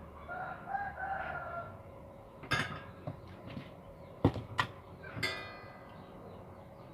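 A chicken-like bird call lasting about a second and a half, then four sharp knocks and clatters of hard objects, the last one ringing briefly.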